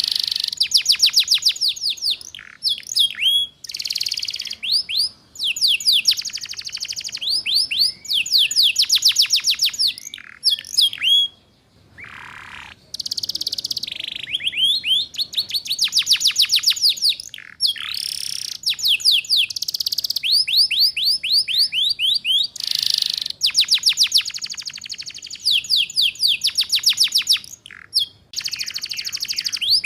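Domestic canary singing in rapid, rattling trills of fast repeated notes, the 'ngeriwik' style used as a tutor song for young canaries. The phrases last a second or two, with short gaps between them and one brief pause about twelve seconds in.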